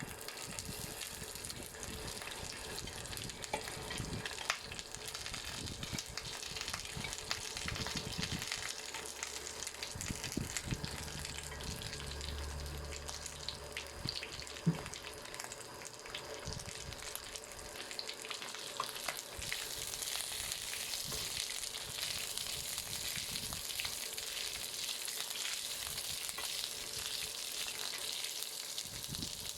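Peanuts sizzling and crackling in a hot pan as they cook, a steady dense crackle that grows a little brighter and louder about two-thirds of the way through, with one sharp click about halfway.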